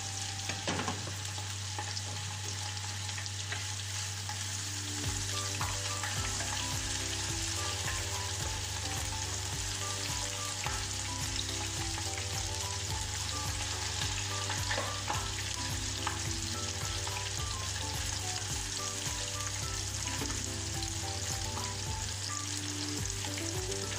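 Sliced onion and ginger sizzling steadily in hot oil in a frying pan, stirred now and then.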